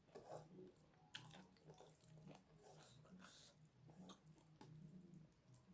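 Faint close-miked chewing: soft, irregular wet mouth clicks and smacks, over a faint steady low hum.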